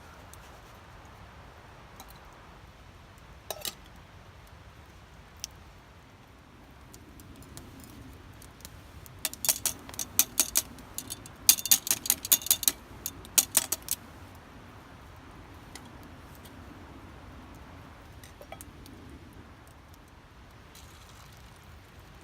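Light metal-on-metal clinking of camp cookware or cutlery, in quick rattling clusters for about five seconds near the middle, with a couple of single clicks a few seconds in.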